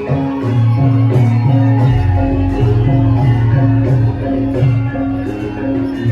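Javanese gamelan ensemble playing: bronze metallophones and gongs ringing out a steady melody over a low note that pulses in an even repeating pattern.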